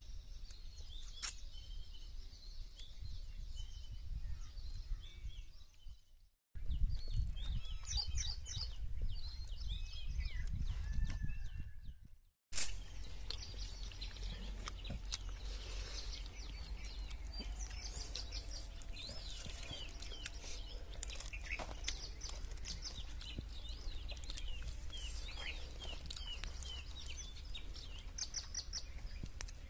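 Small birds chirping and calling, many short high chirps and trills over a low rumble. The sound drops out briefly twice, about six and twelve seconds in.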